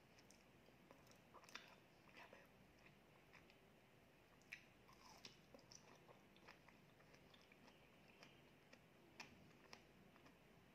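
Faint, close mouth sounds of a person chewing soft honey cream cheese cake: small moist clicks and smacks at irregular intervals.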